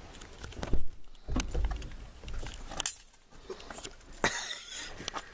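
Keys jangling inside a car cabin, with several sharp clicks and a short burst of rustling about four seconds in.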